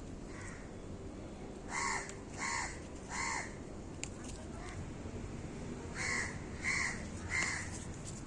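A bird calling: two runs of three short calls each, the first about two seconds in and the second about six seconds in.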